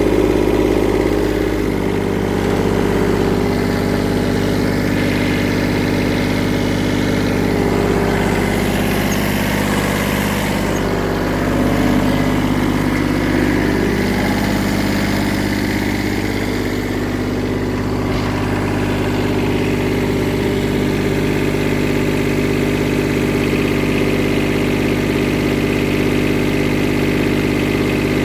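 Kubota B7100HST compact tractor's small three-cylinder diesel engine running steadily, its pitch shifting a little partway through. It runs clean, with no knocks or misses.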